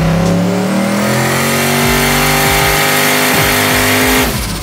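GT50-turbocharged 402-cubic-inch LS V8 (LQ9-based) making a full-throttle pull on a chassis dyno. The pitch climbs steadily for about four seconds, then the throttle closes and the sound drops away near the end.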